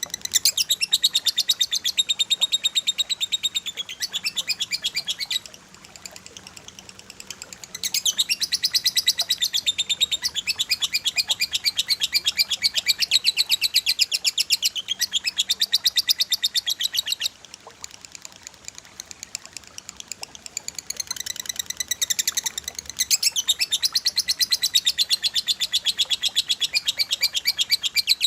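Songbird song made of long phrases of very fast, densely repeated high notes, a rapid-fire trill. The phrases break off twice for a few seconds of quieter calling.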